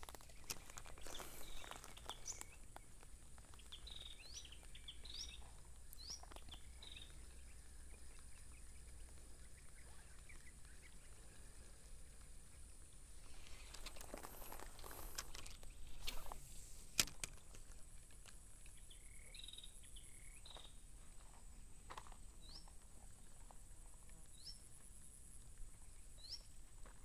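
A bird calling with short rising chirps, repeated about once a second in two spells, over faint background noise. A few brief noisy bursts and a sharp click come about two thirds of the way through.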